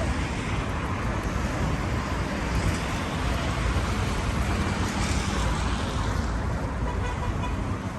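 Steady road traffic noise, a low rumble with the hiss of passing cars swelling and fading, loudest about five seconds in.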